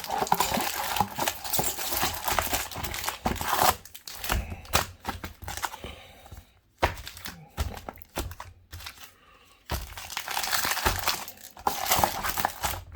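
Foil booster packs being handled and shuffled, crinkling, with a couple of brief pauses around the middle.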